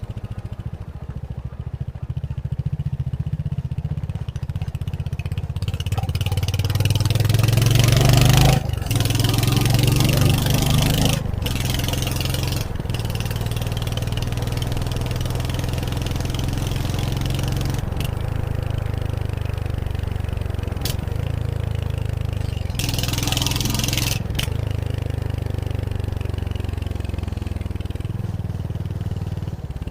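Royal Enfield Hunter 350's single-cylinder engine running under way. It rises in pitch as the bike accelerates, with two brief drops for gear changes about a third of the way in, then holds a steady cruise. Wind rushes on the microphone during the faster stretches.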